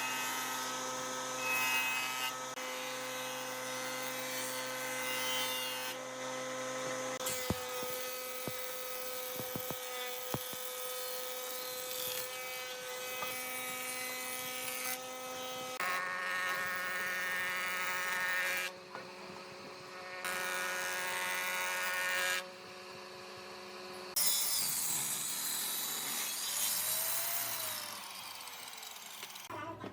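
Electric power tools working wood, their motors running with a steady whine over the noise of cutting or sanding. The sound changes abruptly several times as one tool or pass gives way to another.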